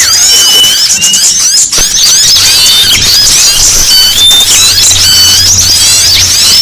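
Many small songbirds chirping and twittering at once, a dense, noisy tangle of rapid high chirps and short level whistles overlapping without pause.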